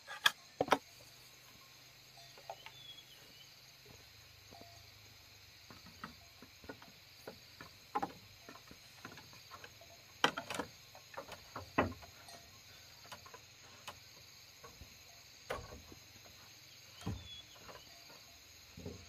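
Irregular light knocks and taps of hand work with wood or bamboo, a few sharper strikes spaced several seconds apart.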